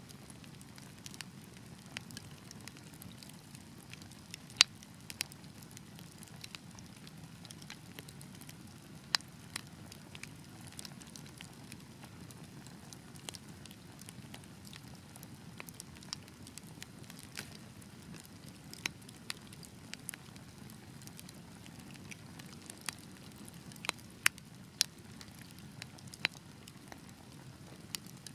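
Wood fire crackling in a fireplace: irregular sharp pops and snaps over a steady low rumble of the flames. The loudest pop comes about four and a half seconds in, and there is a small cluster of pops near the end.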